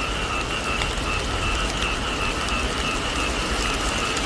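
Steady rain falling on a thatched roof and the surrounding field, with a few faint drip clicks. Under it runs a continuous chorus of calling animals at two steady high pitches.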